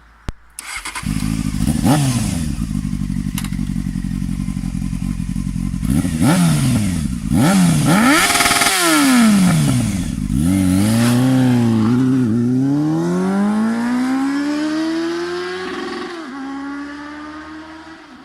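Honda CBF600N inline-four engine through an aftermarket Akrapovic-replica slip-on exhaust, running loudly and revved several times, its pitch rising and falling with each blip. Near the end it climbs in one long rising rev, then drops and fades away.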